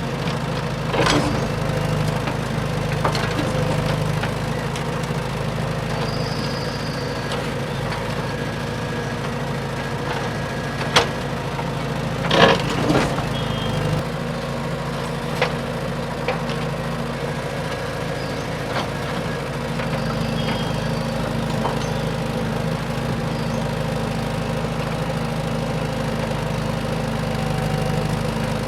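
Steady hum of a radio-controlled model dump truck running, broken by a few sharp cracks and knocks, the loudest a short cluster about halfway through.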